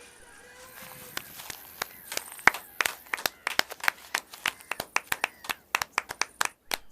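A few people clapping by hand, in separate sharp claps that start sparsely about a second in and grow to several a second.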